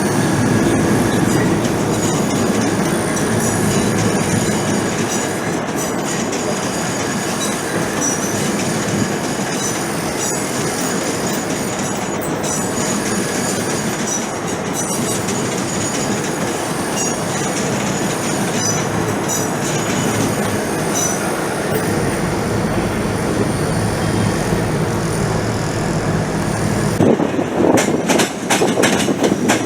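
A train running on the rails: a steady rumble with short high wheel squeals. Near the end come a run of evenly spaced clicks from the wheels passing over rail joints.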